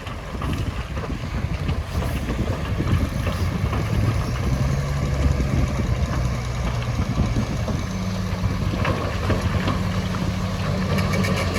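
Heavy diesel engine of earthmoving machinery running steadily, its note changing about eight seconds in, with wind on the microphone.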